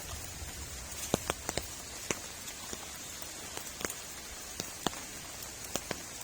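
Heavy rain falling steadily, with large drops striking close by as sharp, irregular ticks, a few every second.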